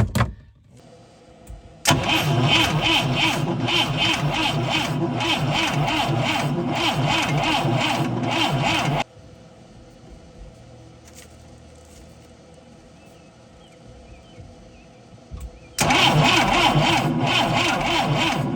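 Boat engine being cranked by its starter in two bursts of about seven and three seconds, with an even, rhythmic chug of the engine turning over; it does not catch and each burst stops abruptly.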